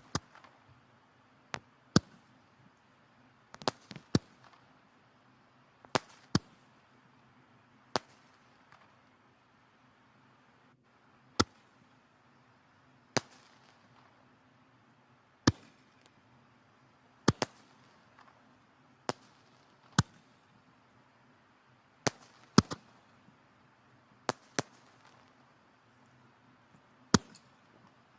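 Firewood burning in a wood fireplace, crackling with sharp irregular pops about every one to two seconds over a faint low hiss.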